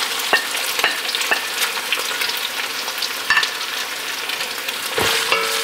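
Diced ham and chopped onions sizzling in hot olive oil in an enamelled Dutch oven, with several sharp clicks as a metal plate and a wooden spoon knock against the pot while the ham is tipped in and stirred. A short ringing tone sounds near the end.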